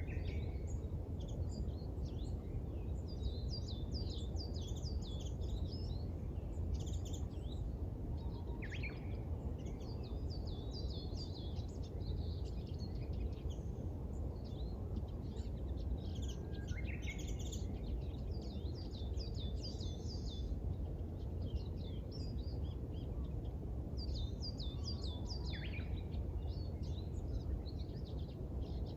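Small birds chirping and singing in repeated bursts of quick high notes, with a few downward-sliding calls, over a steady low background rumble.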